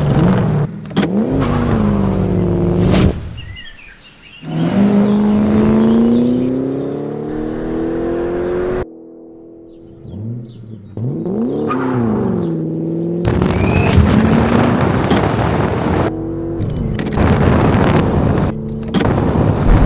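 Roush-kitted Ford Mustang's engine revving and accelerating in a series of edited clips. The pitch climbs and drops again and again, with abrupt cuts and a quieter lull about halfway through.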